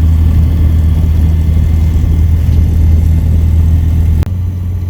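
Light aircraft engine running steadily with a deep hum. About four seconds in there is a sharp click and the hum drops to a quieter level.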